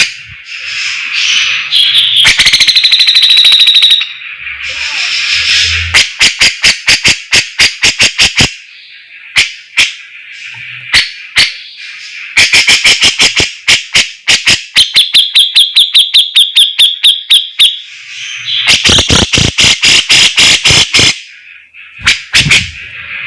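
Cucak jenggot (grey-cheeked bulbul) singing loudly in a bird-training recording. It gives phrases of chattering trills and fast runs of sharp repeated notes, some around six a second, with short breaks between the phrases.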